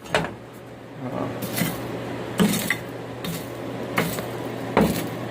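Coal forge fire burning with a steady low hum of air, and a few scattered metallic clinks and knocks as the rail steel heats to a bright orange.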